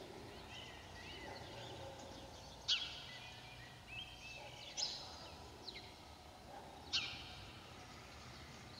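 Wild birds calling: three sharp, high calls that sweep quickly downward, about two seconds apart, with softer chirps between them, over a faint low background rumble.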